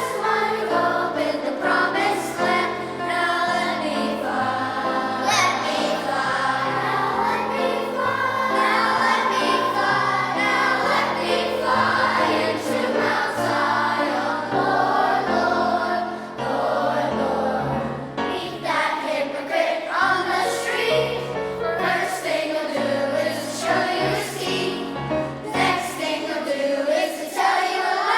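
Children's choir singing, with sustained low notes under the voices.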